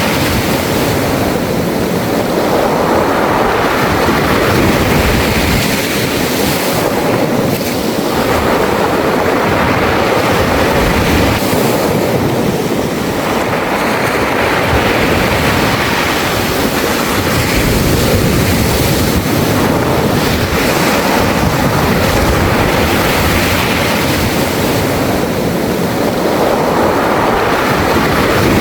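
Sea waves washing in and out over a beach of smooth round pebbles, the stones rattling and clattering in the backwash, in a steady wash that swells and eases every few seconds.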